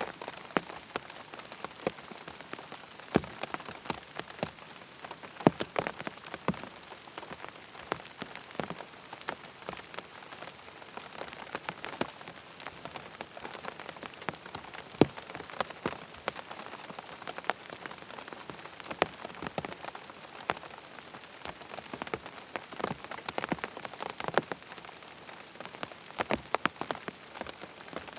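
Steady rain hiss with frequent sharp ticks and taps scattered irregularly through it.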